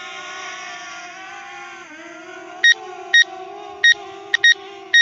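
DJI Mavic Air quadcopter hovering close by, its propellers giving a steady whine that dips briefly in pitch about two seconds in as it comes down to land. From a little past halfway, a string of short, sharp electronic beeps sounds several times over it.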